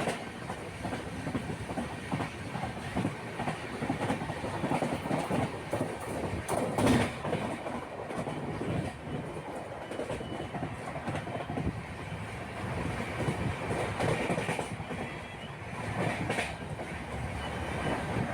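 Continuous rumbling, rattling noise, like a vehicle in motion, with a sharper knock about seven seconds in.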